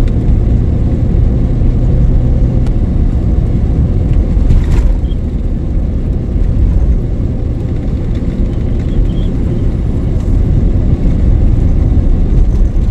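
Steady low rumble of a pickup truck's engine and tyres heard from inside the cab while driving on a snowy road.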